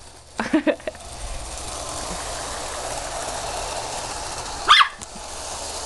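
Puppy barking: a quick run of three or four short yaps about half a second in and one louder, higher bark near the end, over a steady whir of a toy train running.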